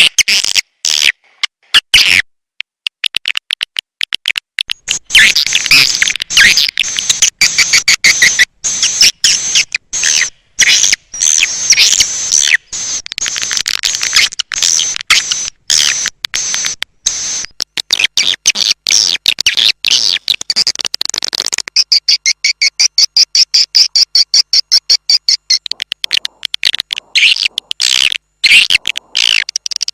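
Recorded edible-nest swiftlet calls: dense, rapid, high-pitched chattering twitters chopped into many short pulses, changing about 22 s in to a more even, regularly pulsing twitter. This is a swiftlet lure call, played to draw swiftlets into a nesting house.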